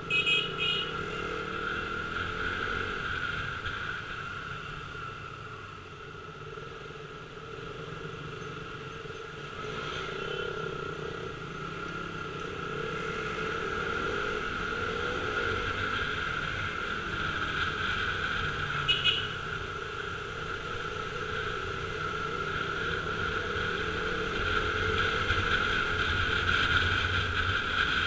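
KTM RC 200's single-cylinder engine running steadily while riding, growing louder toward the end. Short high beeps sound near the start and again about two-thirds of the way through.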